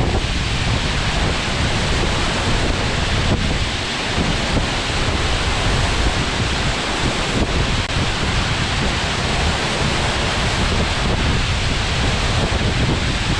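Steady rush of a tall straight-drop waterfall heard from close to its base, with gusty buffeting on the microphone from the wind and spray.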